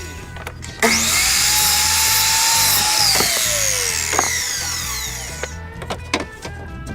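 A power tool runs for about four and a half seconds and its motor pitch falls as it slows near the end. Background music with a steady beat plays throughout.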